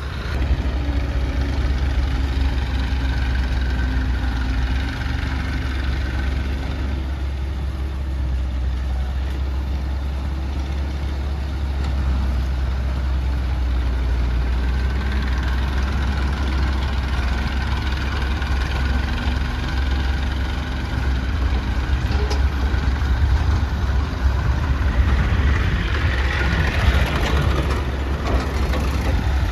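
Heavy diesel engine of a tractor or backhoe running steadily with a deep rumble, growing louder and harsher for a few seconds near the end.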